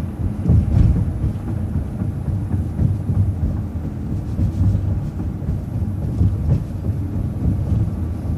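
Steady low rumble of a moving city bus, engine and road noise heard from inside the vehicle.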